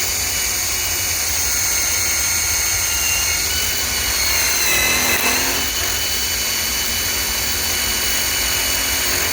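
Ryobi PSBIW25 compact cordless impact wrench running continuously under load for about nine seconds, driving a galvanized lag screw into wood. Its whine dips slightly in pitch about halfway through, then recovers before the tool stops.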